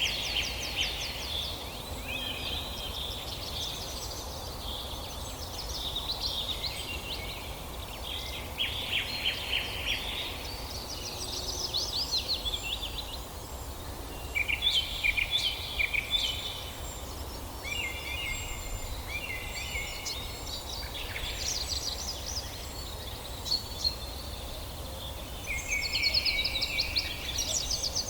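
Several songbirds singing: repeated rapid trilling phrases and chirps every few seconds, over a steady low background rumble.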